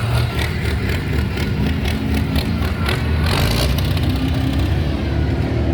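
Modified farm pulling tractor's engine running hard, loud and steady.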